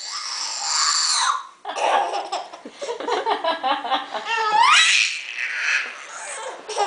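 A young child laughing in bursts of quick pulses, with a high squeal that rises sharply in pitch a little over four seconds in.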